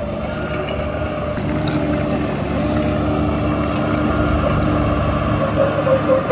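Heavy diesel engine of earthmoving equipment running steadily, growing a little louder about a second and a half in.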